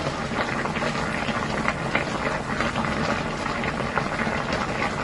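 Pot of spicy fish cake soup boiling: a steady, dense bubbling with many small pops, over a low hum.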